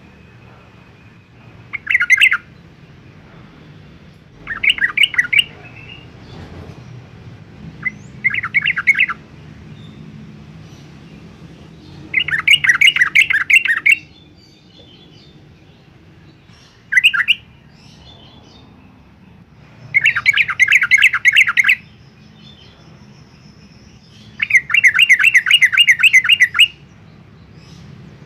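Yellow-vented bulbul singing: seven phrases of fast repeated notes a few seconds apart, some brief, the longest about two seconds.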